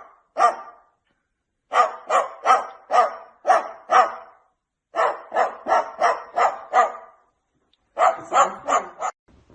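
A dog barking repeatedly in quick runs of about three barks a second, with short pauses between the runs.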